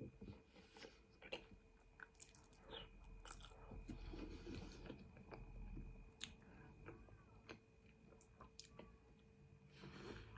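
Faint close-up mouth sounds of someone eating spaghetti: soft chewing with scattered small wet clicks, and a short breathy sound near the end.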